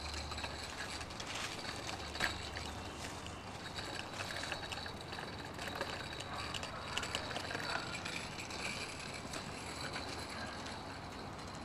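A child's bicycle being pedalled and rolling, its chain and parts making scattered light clicks and rattles.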